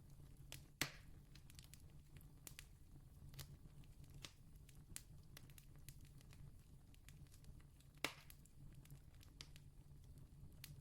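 Wood campfire crackling faintly, with scattered small pops and two sharper pops, about a second in and about eight seconds in, over a faint low hum.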